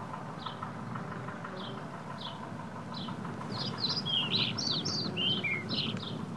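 Songbirds calling: one bird repeats a short, falling chirp about every two-thirds of a second, and from about halfway a burst of quicker, varied song notes joins it, over a steady low hum.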